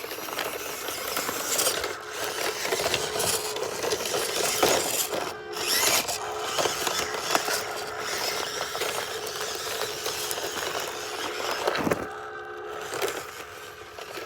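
Small electric motor and gearbox of a 1/18 scale RC crawler truck whining steadily as it drives, with tyres crunching and scraping over rock, and brief pauses along the way.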